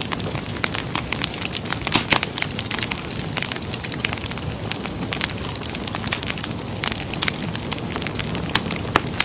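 Wood fire crackling in a fireplace: irregular sharp snaps and pops, several a second, over a steady low rush of the flames.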